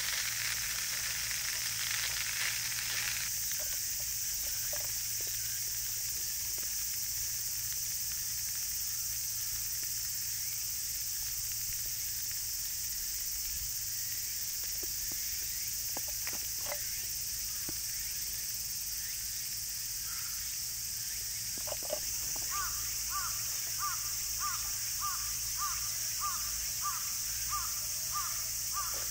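Steady high outdoor hiss. A sizzle, like food frying, fades out about three seconds in, and near the end a bird calls over and over, about two short notes a second.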